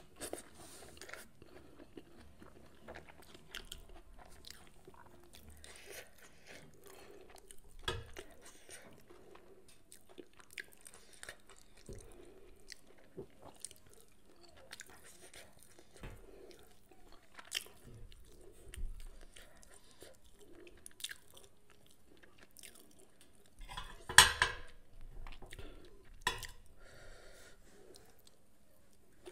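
A person chewing and eating fried mackerel, rice and fried eggplant by hand, close to the microphone, with crunches and small clicks throughout. A louder cluster of clicks comes about 24 seconds in.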